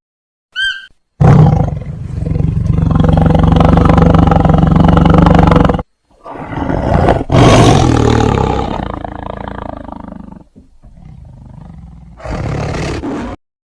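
Large wild animal roaring: a brief high call, then one long, loud roar lasting about four and a half seconds, a second roar that fades, and a shorter one near the end.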